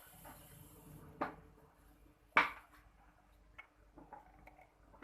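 A few light metallic clinks and knocks, the loudest about two and a half seconds in, over a faint steady hum, from hands and tools working on a refrigerator during refrigerant charging.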